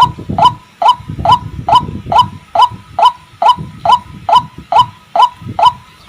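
White-breasted waterhen calling: a steady, even series of short notes that rise in pitch, a little over two a second.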